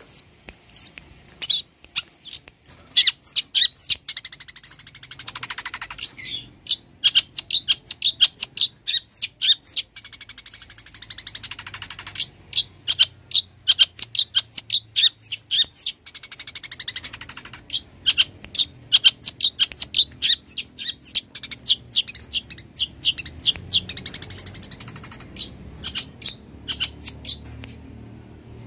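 Long-tailed shrike (cendet) singing a fast, varied song of sharp chips and whistles, several notes a second, broken about every six seconds by a harsher rasping trill.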